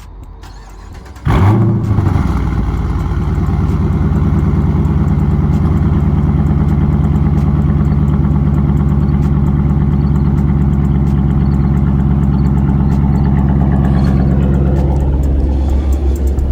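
Straight-piped Chrysler 300S's 5.7-litre Hemi V8 cold-starting: about a second in it fires with a sudden loud flare, then settles into a loud, steady idle. Near the end the idle note drops slightly lower.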